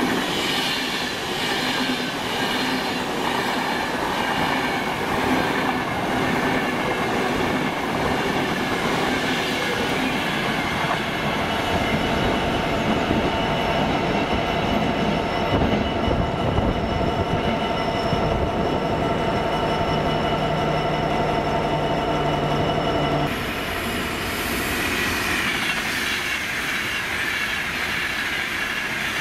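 A train running at a station platform: steady noise carrying several whining tones. The tones stop abruptly about 23 seconds in, and a slightly quieter train sound carries on.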